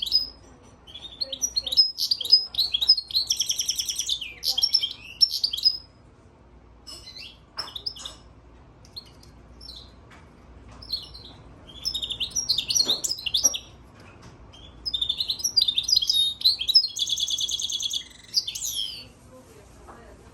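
European goldfinch × Timbrado canary hybrid (a mule) singing in four phrases of quick twittering notes broken by short pauses. The phrases include fast, even rolling trills, the longest near the end.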